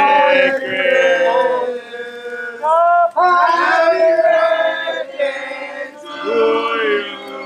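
A group of voices singing or chanting together, loud and pitched, with short breaks.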